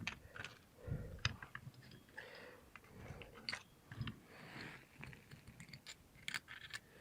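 Faint scattered clicks and light rustling of small carburetor parts being handled and put away.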